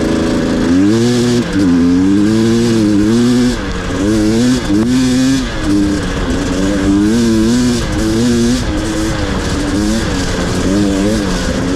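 Two-stroke dirt bike engine under riding, its pitch rising and falling again and again as the throttle opens and closes.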